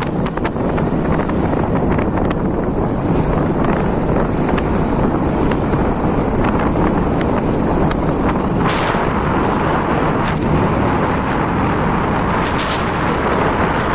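Steady wind noise buffeting the microphone, with scattered faint clicks and a couple of sharper knocks, about nine and twelve and a half seconds in.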